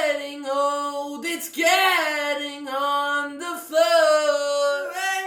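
A single voice singing unaccompanied, holding long steady notes in three phrases with short breaks between them.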